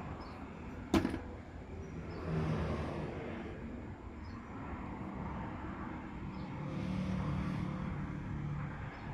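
A motor vehicle engine running steadily, a low hum that swells louder twice, with one sharp click about a second in.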